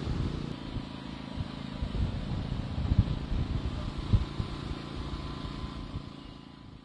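Hurricane-force wind and rain, with gusts buffeting the microphone in a heavy, uneven low rumble. The sound fades out near the end.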